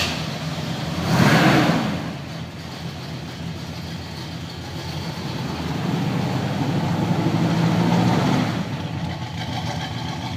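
1969 Pontiac GTO's V8 engine running just after starting: a short rev about a second in, then idling, then a longer rise in revs past the middle that falls back to idle near the end.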